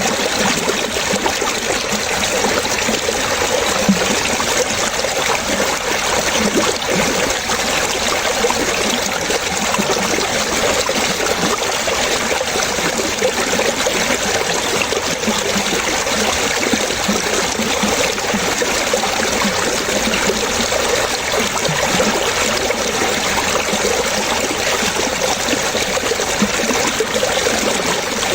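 Running water trickling and splashing steadily, an even flow with no pauses.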